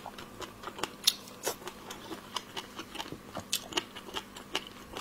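Close-miked chewing of a mouthful of seafood: an irregular run of wet mouth clicks and smacks, several a second, with one louder smack about a second in.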